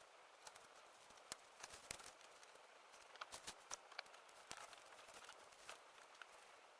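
Small wood campfire crackling faintly: scattered sharp pops and ticks at uneven intervals over a soft hiss.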